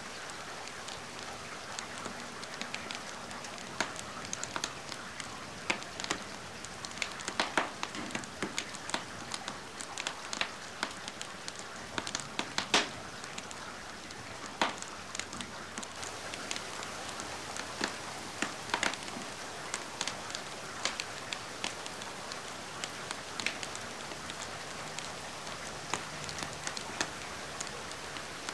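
Steady rain mixed with a wood fire crackling, with irregular sharp pops over the rain's even hiss; the loudest pop comes about halfway through.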